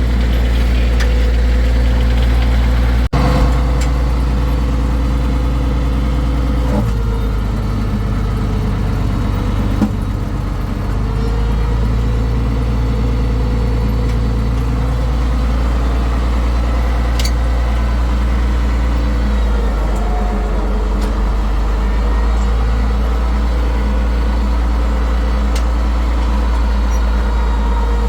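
International 1066 tractor's six-cylinder diesel engine running steadily, driving the PTO logging winch; its note shifts about a quarter of the way in and again past two-thirds, as the load on the engine changes.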